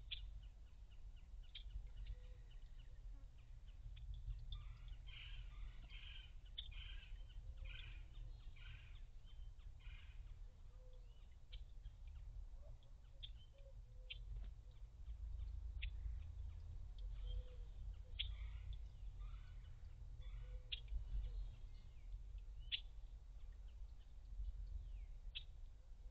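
Faint bird calls: short high chips scattered all through, with a run of warbled notes from about five to ten seconds in, over a steady low background noise.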